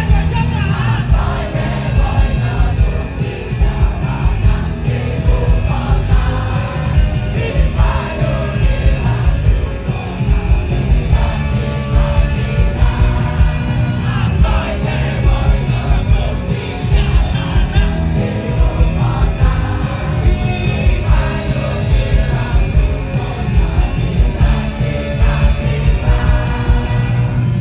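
Live rock band playing loudly with a lead singer over a steady drum beat and bass.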